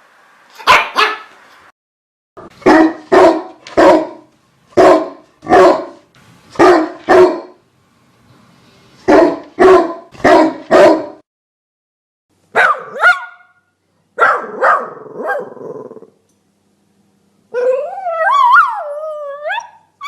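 Dogs barking in a string of separate clips: one dog barking loudly in single barks and quick pairs, then a different dog's sharper barks after a short silence. Near the end a dog gives one long howl with its pitch wavering up and down.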